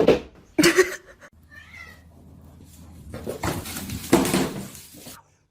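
Cat meowing: two short loud calls at the start, a faint call near two seconds, then a longer, noisier drawn-out cry in the second half.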